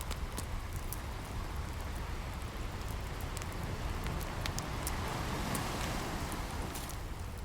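Ocean waves washing on a shore, one swelling up about five seconds in, with scattered crackles and pops from a campfire.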